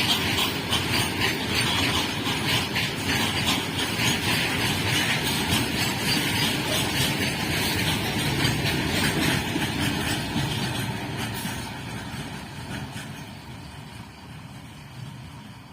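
Train passing on the track, its wheels rumbling and clattering over the rails, then fading away over the last few seconds as it moves off.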